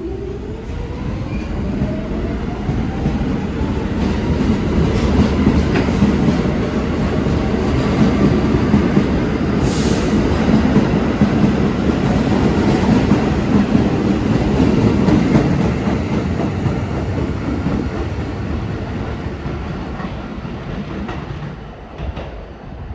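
R46 subway train pulling out and passing on the N line, its traction motors giving a rising whine in the first few seconds as it picks up speed. The wheels clatter over the rail joints in a loud rumble that builds through the middle and fades near the end, with a brief sharp high screech about ten seconds in.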